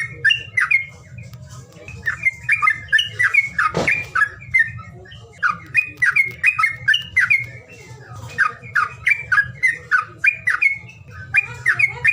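A songbird calling in runs of rapid, sharp chattering notes, each run about two seconds long with short pauses between. This is a bird-call recording used to coax caged birds that are reluctant to sing. A steady low hum runs underneath, and a brief knock comes about four seconds in.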